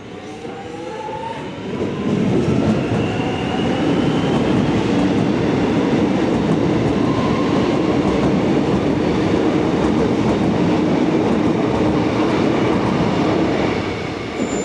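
Melbourne suburban electric train passing through the station. Its motor whine rises in pitch over the first few seconds, then the loud rumble of the train on the rails holds steady for about ten seconds and fades near the end.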